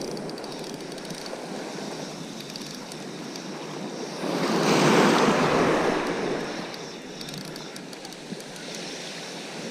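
Sea surf washing on the shore, a steady hiss with one wave swelling louder and breaking about halfway through before easing back.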